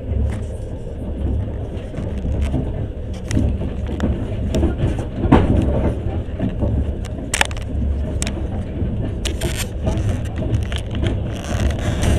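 Passenger train running, heard from inside the carriage: a steady low rumble from the wheels on the track, with scattered sharp clicks and knocks.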